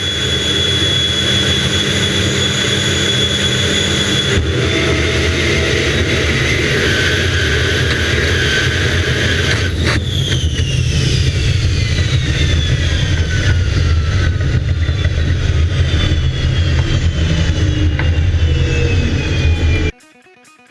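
Jet dragster's jet engine running loud and steady with a high whine. About halfway through, the whine starts falling slowly in pitch over several seconds. Near the end the engine sound cuts off suddenly and quieter guitar music takes over.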